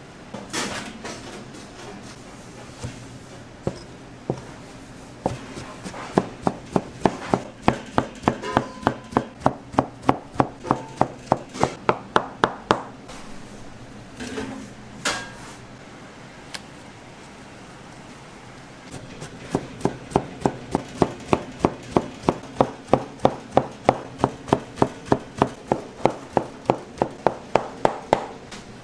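Kitchen knife chopping on a cutting board in a quick, steady rhythm of about three to four strokes a second, in two long runs with a pause between. There are a couple of louder clanks of utensils, one near the start and one about halfway.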